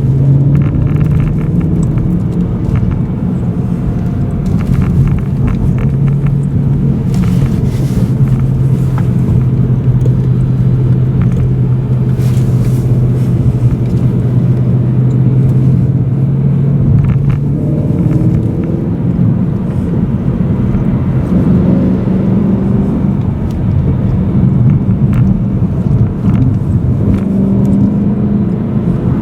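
BMW M3 E92's V8 engine heard from inside the cabin, running at steady low revs. After about 17 seconds the revs climb and waver, and they rise again near the end.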